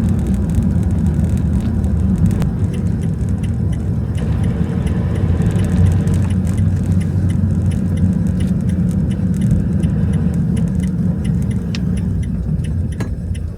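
Diesel van driving, heard from inside the cab: steady low engine and road rumble, with light rattles and clicks from loose items. The rumble eases off slightly near the end.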